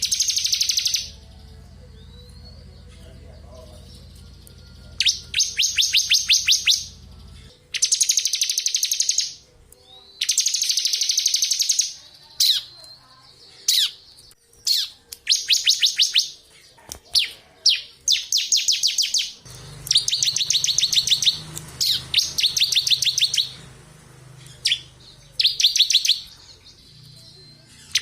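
A ciblek (bar-winged prinia) singing its rapid, machine-gun-like high trill, the 'ngebren' song, in repeated bursts of half a second to two seconds with short gaps between them.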